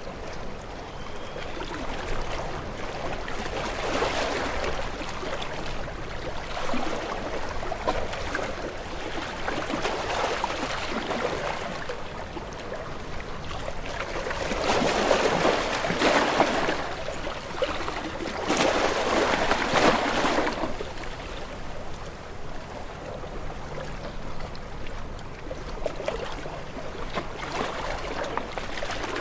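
Sea waves washing in and drawing back, a steady wash of water that swells in slow surges. The strongest two come one after the other about halfway through.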